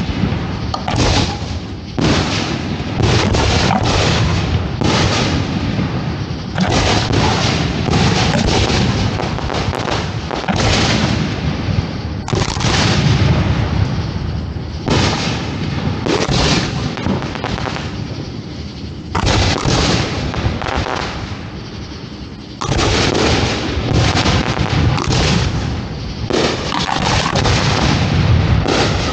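A professional fireworks display firing, heard close to the firing site: shells launching and bursting one after another in a near-continuous barrage of sharp booms with rolling rumble. The barrage eases a little past the middle, then a fresh loud volley breaks out about three quarters of the way through.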